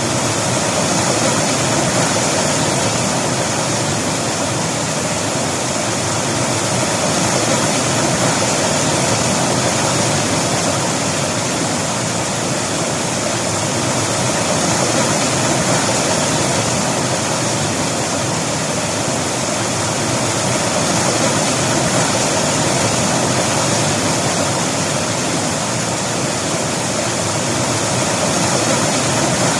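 River water flowing and rushing in a steady, even stream, with no break or change.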